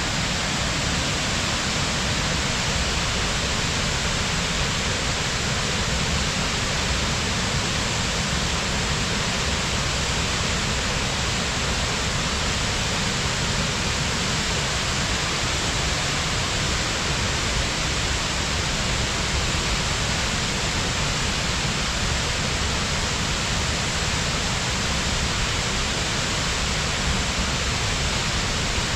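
Waterfall pouring steadily, a constant rushing roar of falling water with no change in level.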